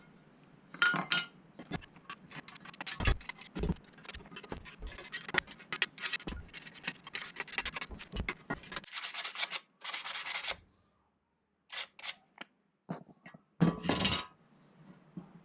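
Rubbing and scraping on the metal parts of an old weighing scale being worked by hand, with light clinks. Irregular strokes give way to a few short bursts of scrubbing, broken by brief dead silences.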